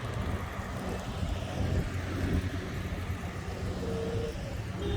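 Old cars driving slowly past, their engines giving a steady low rumble.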